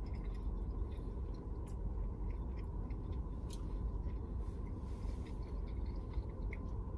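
A person chewing a mouthful of soft glazed-donut breakfast sandwich with the mouth closed, with faint small wet clicks now and then. A steady low hum of the car cabin runs underneath.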